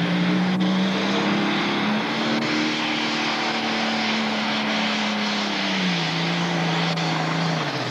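Pro stock pulling tractor's diesel engine revving high and held there, its pitch stepping down about six seconds in and again near the end as it backs off. The announcer says it is not running right.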